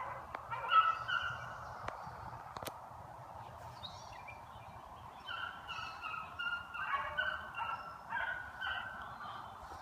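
Beagles baying in short, repeated chop-mouth notes: a brief burst about a second in, then a longer run of notes from about halfway until near the end, as hounds giving tongue on a scent trail.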